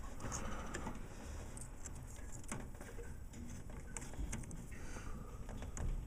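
Scattered small clicks and light knocks of parts being handled and fitted together by hand, with a faint low background rumble.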